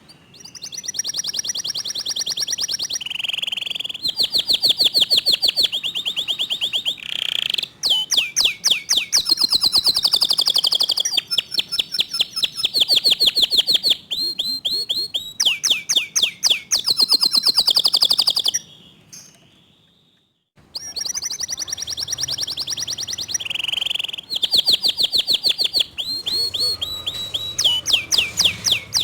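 Local canary (kenari lokal) singing long runs of fast, closely repeated trill notes in phrases of a few seconds each, with a short pause about two-thirds of the way through.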